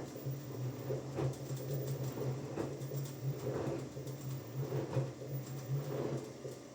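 Washing machine running a wash: a steady motor hum with a swish of the turning drum about every second and a bit. The hum stops near the end.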